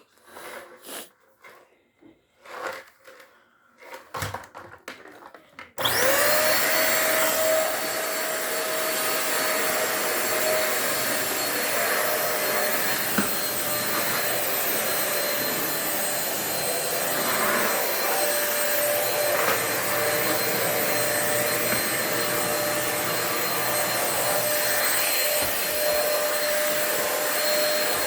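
Corded vacuum cleaner switching on about six seconds in and running steadily with a high whine. A few light handling clicks and knocks come before it starts.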